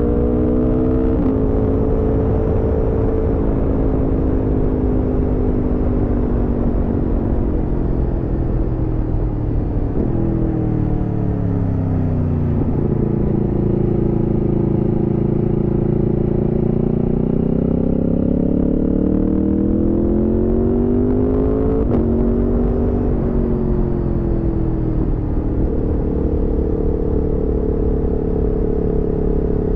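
Aprilia Tuono V4's V4 engine riding on the road: a shift up about a second in, the revs falling for a few seconds from about ten seconds in, then climbing steadily to another shift up, and a step up in revs a few seconds later. A steady noisy rumble runs underneath.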